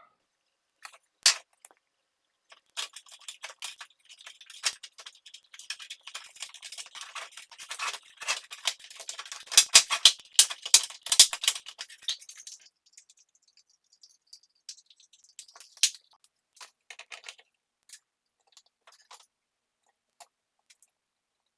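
Small hard parts clicking, rattling and scraping as they are handled, with a dense run of sharp clicks about ten seconds in, then a few scattered ticks.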